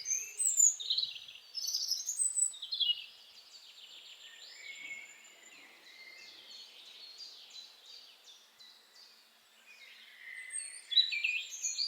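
Small birds chirping and twittering in quick, high-pitched calls: loud bursts at first, a softer run of rapid chirps in the middle, and loud again near the end.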